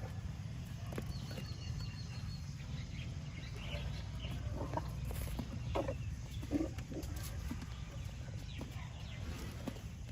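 Outdoor animal sounds: a few short calls, like clucking fowl, bunch up around the middle over a steady low rumble.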